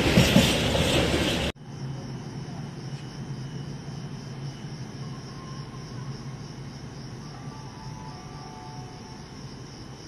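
A train rolling past close by, loud, cut off abruptly about a second and a half in. Then crickets chirping in a steady pulsing trill over a low steady hum.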